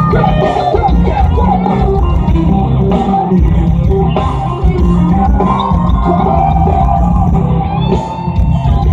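Live rock band playing loud, with electric guitar over heavy bass and drums, in a dense, continuous mix.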